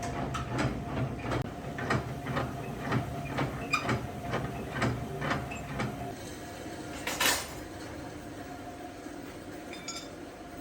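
A run of short knocks, about two to three a second, over a steady low hum, stopping about six seconds in. One louder, longer hit follows about a second later, then the steady hum alone.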